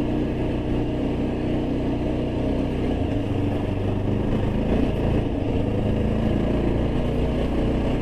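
Yezdi Adventure motorcycle's single-cylinder engine running steadily while riding at a constant speed.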